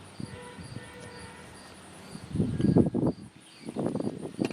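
Water poured from a cup into the funnel of a Rainwise Rainew tipping-bucket rain gauge, in two short pours, about two seconds in and again near the end. Under it, a steady chirping of crickets at about four chirps a second.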